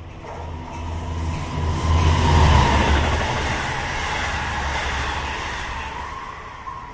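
Long Island Rail Road train passing at speed: a low rumble and rushing noise that builds to its loudest about two and a half seconds in, then slowly fades as the train goes by.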